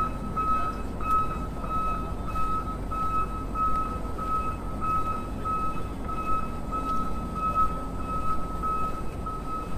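Steady electronic beeping like a vehicle's reversing alarm: one unchanging high tone repeating about twice a second, over a low background rumble.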